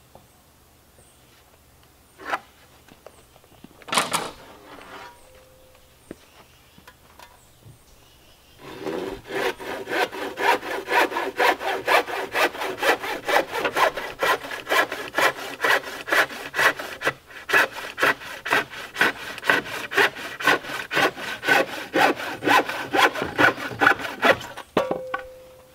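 A hand saw cutting through a wooden board in steady back-and-forth strokes, about two a second, starting about a third of the way in and stopping shortly before the end. A couple of single knocks come before the sawing starts.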